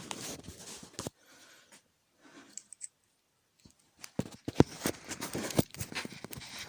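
A person moving about in a small room: scattered clicks, scuffs and rustling, a quiet gap of about two seconds, then a busier run of knocks and scuffs from about four seconds in.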